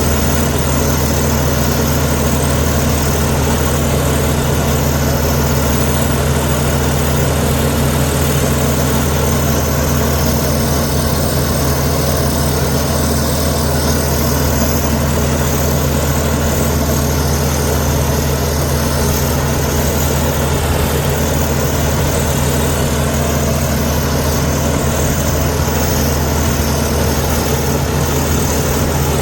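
Komatsu D61EX bulldozer's diesel engine running steadily at an even speed, with no revving.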